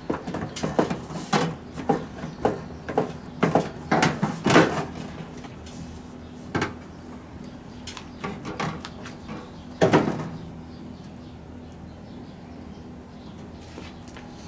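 Clicks, knocks and clatter of microwave oven parts being handled and fitted back together, busiest in the first few seconds, then two single knocks, with a faint steady hum behind.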